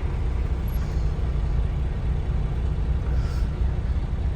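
Steady low engine and road rumble heard inside a truck cab while driving in slow traffic.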